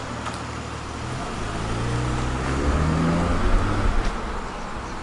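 A car engine accelerating as the car pulls away: its pitch climbs from about a second in, and it grows louder to a peak just past the middle before easing off.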